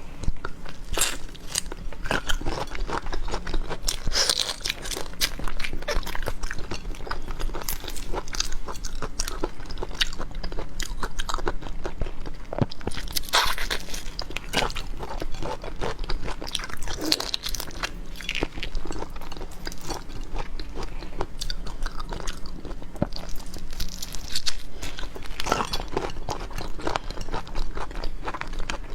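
Close-miked eating of black tiger shrimp: steady wet chewing and crunching, with louder crunchy bites every few seconds, over a faint low hum.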